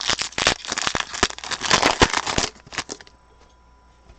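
Foil wrapper of a trading-card pack crinkling and tearing as the pack is opened: a dense crackle of sharp clicks that stops about three seconds in.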